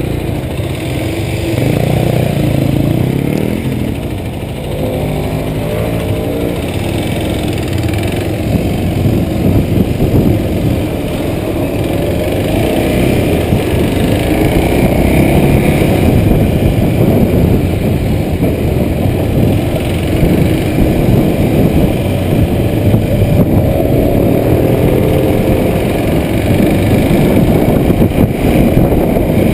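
Kawasaki Super Sherpa's 250 cc single-cylinder four-stroke engine pulling a motorcycle uphill, its pitch rising and falling with the throttle and gear changes, under a steady rush of riding wind.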